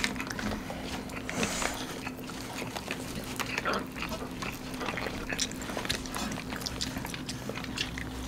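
Close-miked chewing and wet mouth noises of people eating nasi lemak with their hands, with small irregular clicks and crinkles from the banana-leaf and paper wrappers.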